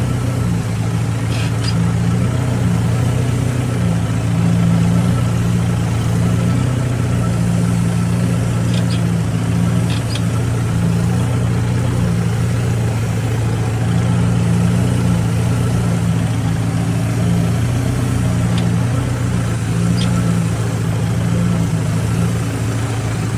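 Kubota tractor's diesel engine running at a steady speed, a constant low hum.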